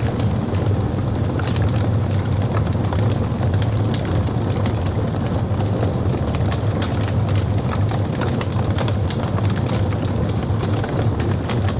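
Fire crackling, with frequent small pops and snaps over a steady low rumble.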